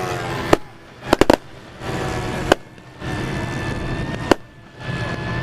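Sharp, loud bangs like firecrackers going off irregularly: a single one, a quick burst of three a little after one second, then single bangs about every two seconds. Between them a steady background noise with a faint held note.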